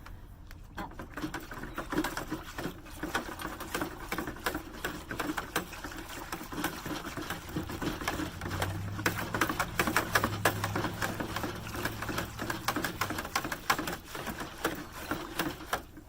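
Dye powder being stirred into water in a measuring container, a utensil clicking and scraping rapidly and irregularly against the sides. A low hum joins in for a few seconds in the middle.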